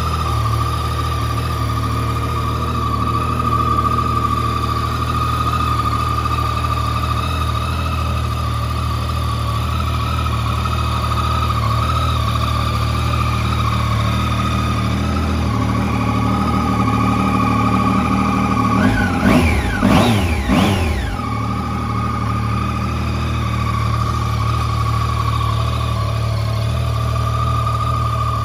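Yamaha Tracer 900's 847 cc crossplane inline three-cylinder engine idling steadily, blipped briefly a couple of times with the throttle about two-thirds of the way in, its pitch rising and falling back to idle.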